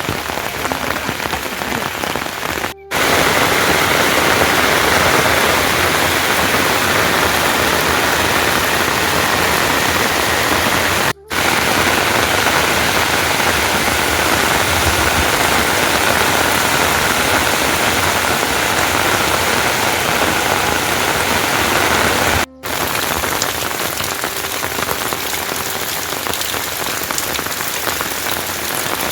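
Heavy rain falling steadily. The sound briefly cuts out three times, about 3, 11 and 22 seconds in.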